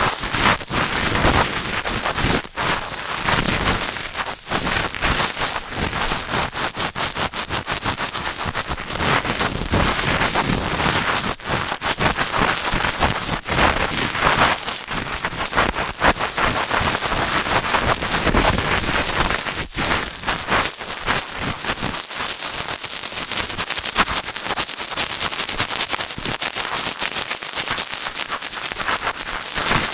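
Cotton swab rubbing and scratching in the ear of a binaural microphone: a dense, steady crackling made of many small clicks.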